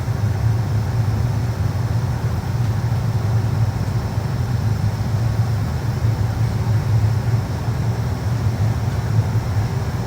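Steady low cabin hum inside a Boeing 757 before departure: an even low drone with a faint hiss of air above it, no changes.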